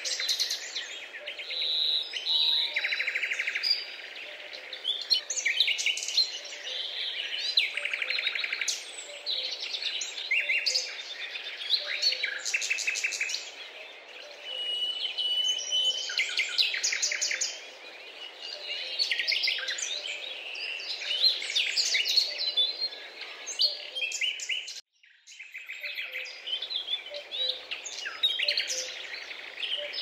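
Several songbirds calling and singing at once: dense, overlapping high chirps, rapid trills and short whistles. The sound cuts out briefly about 25 seconds in, then resumes.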